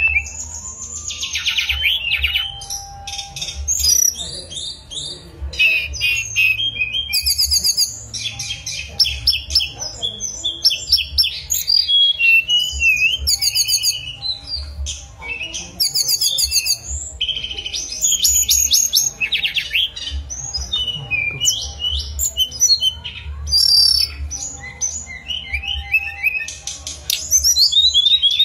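Hill blue flycatcher (tledekan gunung) singing without a break: varied high whistled phrases, pitch glides and fast rattling trills, separated by short gaps.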